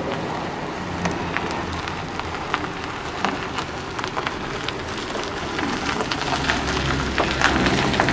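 Scania CR112 bus's diesel engine running as the bus moves, a low hum that gets louder over the last couple of seconds, under a dense crackling noise throughout.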